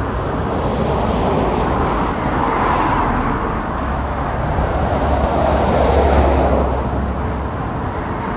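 Busy main-road traffic: cars passing close by one after another, with a heavier low rumble about halfway through.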